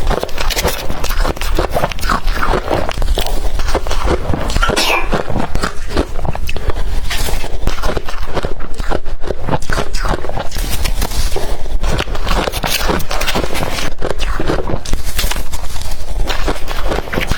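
Crushed blender ice being bitten and chewed: a dense, irregular run of crisp crunches.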